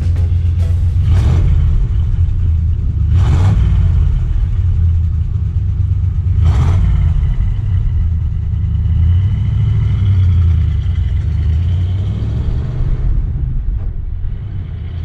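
1936 Ford Deluxe's flathead V8 running with a steady low rumble. Three brief whooshes come through, about one, three and six and a half seconds in.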